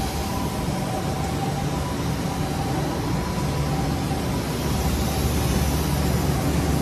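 Steady low rumble and hiss of a Tobu electric commuter train at an underground station platform, growing a little louder about five seconds in.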